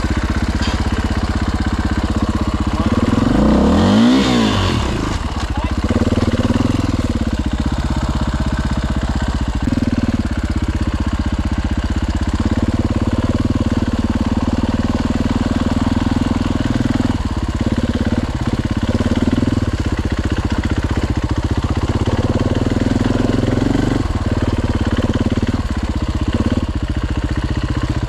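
Dirt bike engine running steadily, with one quick rise and fall in pitch about four seconds in.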